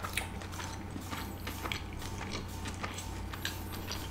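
Close-miked chewing of a chicken shawarma roll: a string of small irregular wet mouth clicks, over the steady low hum of a room fan.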